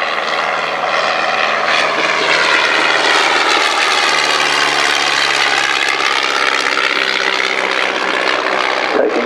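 Vintage piston-engined training aircraft flying overhead: a continuous propeller-engine drone whose pitch bends slowly down and back up as the aircraft passes.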